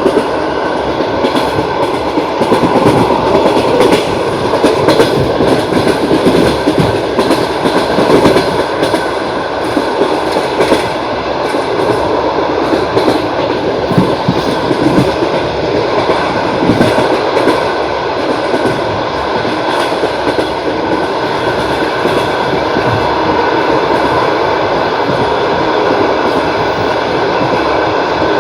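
Passenger train's wheels clattering over the rails: a dense running rumble with irregular sharp knocks, heavier in the first half and evening out into a steadier run in the second.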